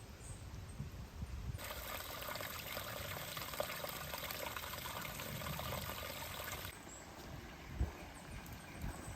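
Running water trickling for about five seconds, starting and stopping abruptly, over a low rumble, with a single thump near the end.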